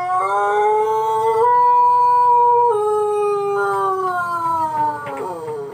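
Pelung rooster's long crow, a drawn-out melodic call typical of this crowing breed. It steps up in pitch about a second and a half in, holds steady, then slowly falls and glides down to its end near the close.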